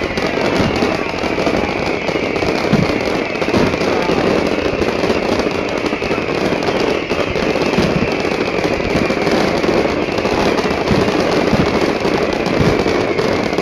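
Fireworks display: aerial shells and crackling stars going off in a continuous dense barrage of bangs and crackle, with no let-up.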